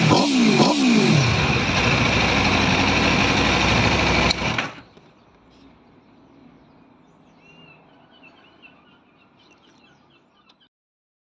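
2021 Aprilia RSV4 Factory's V4 engine on its stock exhaust, revved in quick blips that rise and fall in the first second, then running steadily until it is switched off with a click about four seconds in. Faint bird chirps follow.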